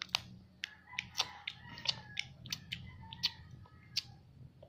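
A crispy snack being chewed close to the microphone: about a dozen sharp, irregular crunches.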